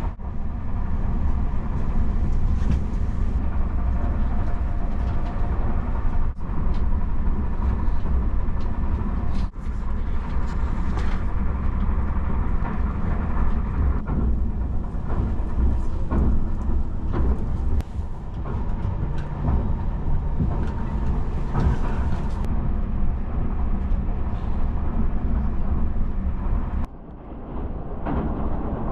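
Interior running noise of the Tobu Spacia X electric train at speed: a steady low rumble of wheels on rail with faint steady tones above it, heard inside the passenger cabin. It drops briefly near the end.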